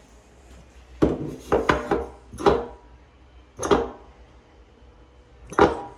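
Several sharp knocks and clatters of hard parts and tools being handled, bunched in the first half and then one or two at a time, over a low steady hum.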